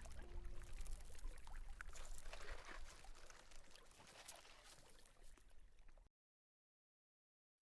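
Faint forest ambience with a soft water-like trickle and small crackles, fading out to complete silence about six seconds in.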